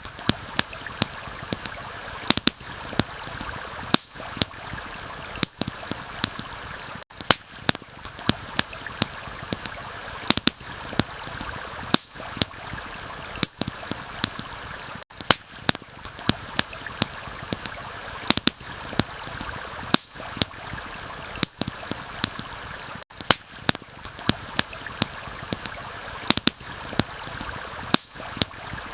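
Steady rushing of a flowing stream, with a campfire crackling over it in sharp, irregular pops about once or twice a second.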